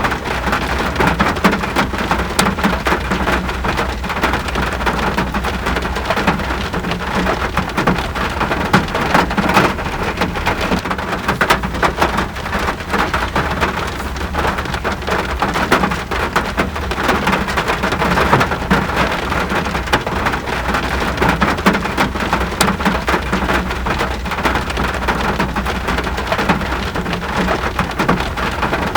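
Steady rain falling, a dense patter of drops over a constant low rumble.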